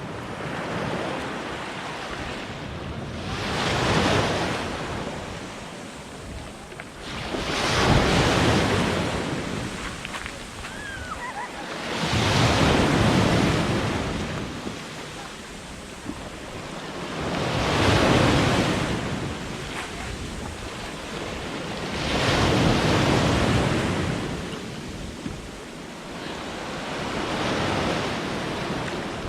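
Black Sea waves breaking on the shore, a rushing surge about every four to five seconds, six in all, with wind buffeting the microphone.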